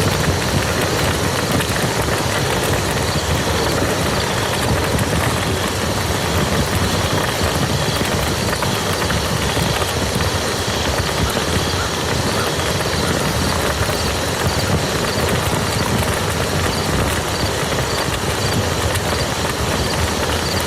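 Steady rain falling on muddy ground, a dense, even patter of raindrops with no let-up.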